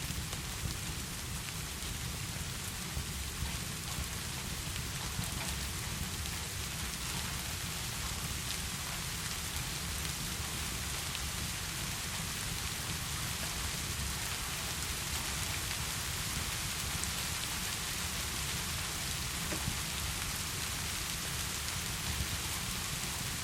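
Steady heavy rain falling, an even hiss with scattered small drop ticks over a low rumble.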